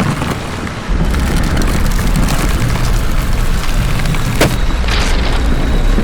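A loud, continuous low rumble, stepping up in loudness about a second in, with a sharp click about four and a half seconds in.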